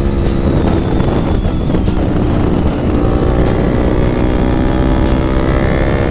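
Yamaha MT15's single-cylinder engine through a modified exhaust, running at high revs under way, its note steady and rising slightly near the end.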